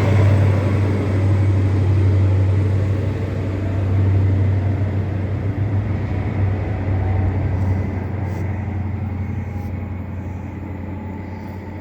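Diesel train running past and away, a steady low engine drone and rushing noise that fade gradually.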